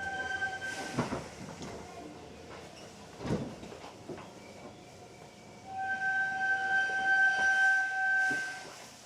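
Hankyu 7300 series train standing at a station with its equipment running quietly. A steady electronic tone sounds briefly at the start and again for about two and a half seconds from about six seconds in, with a few soft knocks in between.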